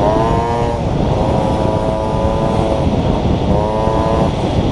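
Small motorcycle engine pulling under throttle, its pitch rising in the first second, holding steady, then coming up again near the end, with wind rushing over the microphone.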